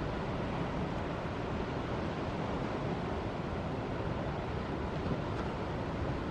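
Ocean surf breaking: a steady wash of wave noise, with wind buffeting the microphone as a low rumble.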